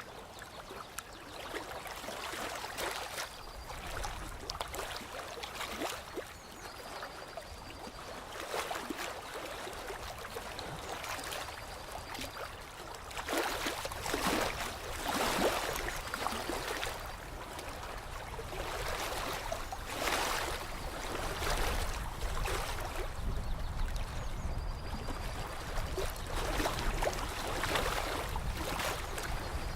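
Lake water lapping and gurgling, coming in irregular swells every couple of seconds.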